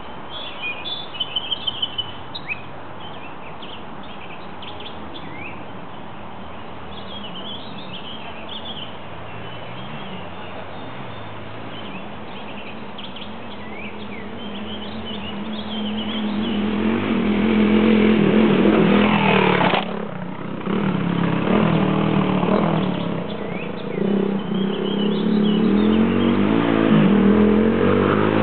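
Birds chirping against an outdoor background, then a single-cylinder four-stroke dual-sport motorcycle comes closer. Its engine grows louder from about halfway and revs under throttle. The sound breaks off suddenly for a moment about two-thirds through, then the bike runs on loud.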